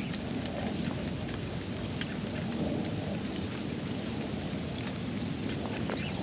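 Steady rain falling on a backyard pond, with a constant low rumble underneath and scattered sharp drip ticks.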